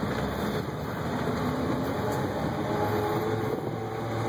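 A 1988 Ford F-350 dump truck's 351 Windsor V8 running as the truck drives along at low speed, with the engine note rising a little about a second or two in as it pulls.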